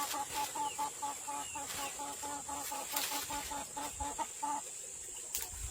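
A chicken clucking in a fast, even run, about five clucks a second, stopping about four and a half seconds in. A few sharp knocks sound through it.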